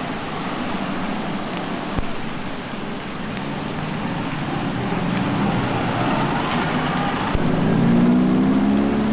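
Road traffic: a steady wash of passing vehicles, with one engine drawing close and getting louder near the end, its pitch rising slightly.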